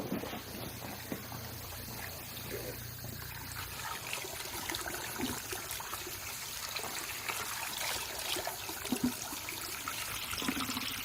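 Water trickling steadily, a continuous run of small splashes.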